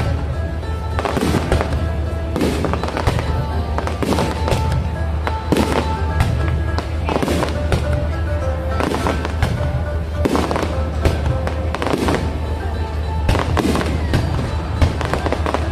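Fireworks display going off: a continuous run of bangs and crackles, about one to two a second.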